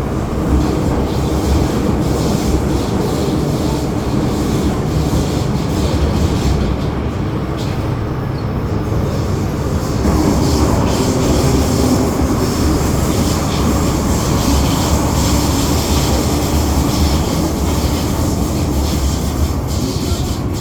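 Hong Kong MTR Island Line metro train running between stations, heard from inside the carriage: a steady loud rumble of wheels and traction motors, a little louder from about ten seconds in.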